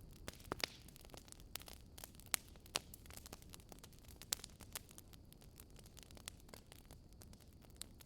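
Campfire crackling: irregular sharp pops and snaps over a low steady hiss, with a handful of louder snaps in the first half.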